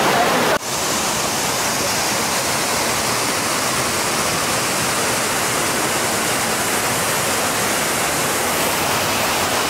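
Waterfall: a steady, full rush of falling water, with a brief break about half a second in.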